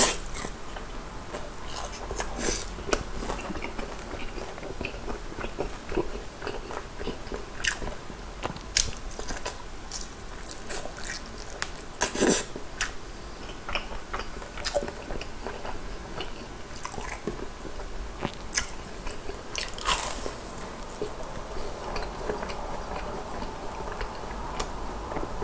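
Close-miked eating of crispy soy-garlic fried chicken: crunchy bites and wet chewing. A few sharp crunches stand out, the loudest about twelve seconds in, and a fried cream-cheese ball is bitten and chewed near the end.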